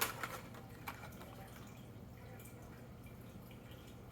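A few light clicks and taps of die-cast toy cars being handled, the sharpest at the very start and a few more in the first second, over a faint low steady hum.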